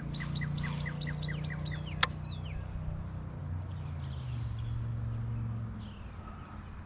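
A songbird calling: a quick run of short, evenly spaced chirps with a few falling whistled notes, then fainter calls later. A steady low hum lies underneath until near the end, and a single sharp click comes about two seconds in.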